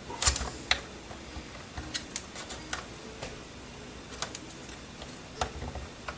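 Irregular small clicks and taps of plastic drone body parts and cable connectors being handled, about eight over a few seconds.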